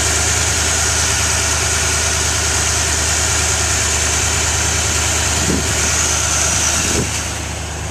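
1976 Corvette Stingray's 350 small-block V8, built with a mild cam, idling steadily with the hood open.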